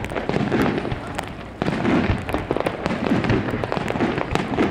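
Aerial fireworks display: a dense run of bursts and crackling with low booms underneath, jumping louder about one and a half seconds in.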